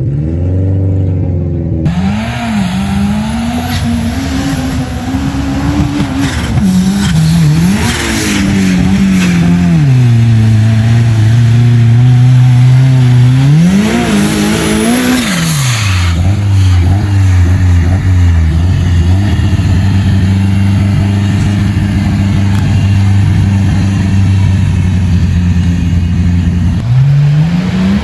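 Off-road vehicle's engine revving up and down under load, settling to a steady lower pitch for long stretches in between and rising again near the end.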